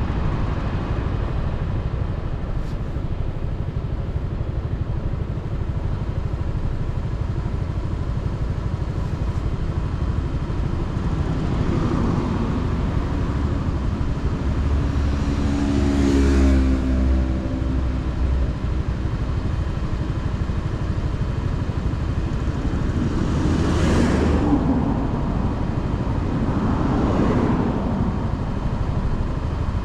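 Motorcycle riding on city roads: steady engine and road noise, with about four louder swells as other vehicles pass close by.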